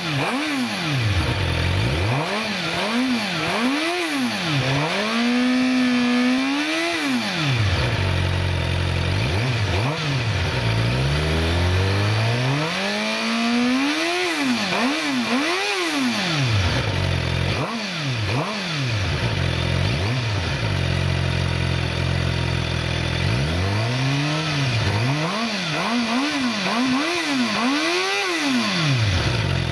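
Suzuki GSX-R 750's inline four-cylinder engine revved through an Eagle slip-on exhaust while standing. It gives quick throttle blips in clusters, with one rev held briefly at about six seconds and a slower climb at about twelve seconds. Between the clusters it settles back to a steady idle, from about seventeen to twenty-three seconds.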